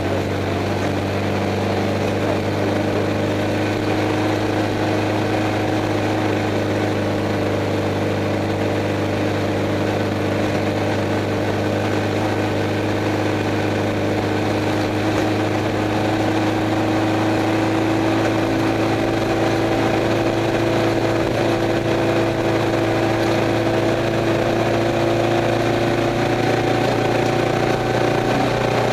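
Air-cooled Volkswagen flat-four engine of a Class 11 Stock Bug, running steadily as heard from inside the car, with a steady hiss beneath it. Its pitch climbs gradually about halfway through, then holds.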